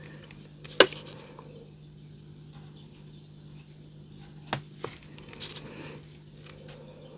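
Tabletop crafting handling noises: a sharp tap about a second in, two lighter taps a little after the middle and a soft rustle, over a faint steady low hum.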